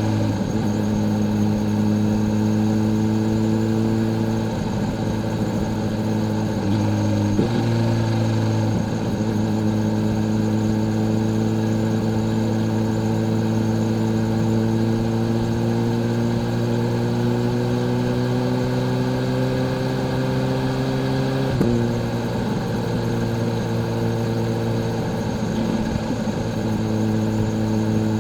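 Kawasaki Z H2's supercharged inline-four engine and exhaust under way at a steady cruise. The pitch climbs slowly over about twelve seconds of gentle acceleration, then drops sharply about three-quarters of the way through, as at an upshift, and runs steady again.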